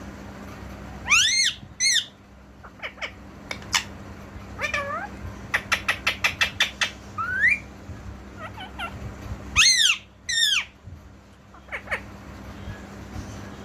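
Pet green parrot calling: loud arching screeches twice near the start and twice about ten seconds in, with short chirps between and a quick run of clipped notes, about seven a second, in the middle.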